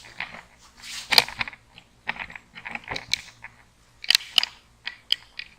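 Scattered metal clicks and knocks as a PEX crimping tool is handled and set over the crimp ring on the pipe. The sharpest come about a second in and in a quick pair about four seconds in.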